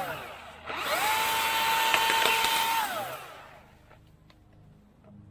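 Battery-powered Milwaukee M18 Hatchet mini chainsaw: an earlier run winds down at the start, then the saw spins up with a rising whine just under a second in, runs steadily for about two seconds and winds down again.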